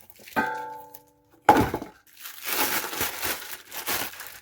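A metal part or tool clinks and rings briefly, a heavier knock follows about a second later, then a couple of seconds of rough rustling and scrubbing handling noise.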